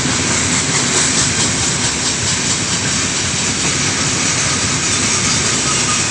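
Heavy loaded freight train rolling past at speed: a steady, loud rush and rumble of steel wheels on the rails, with fine rapid clatter.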